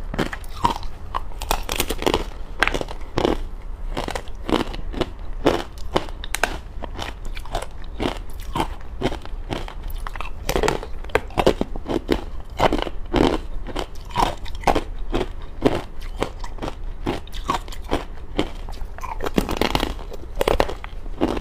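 Close-miked biting and chewing of thin, hollow frozen matcha ice: a rapid, irregular run of sharp crunches and cracks, several a second.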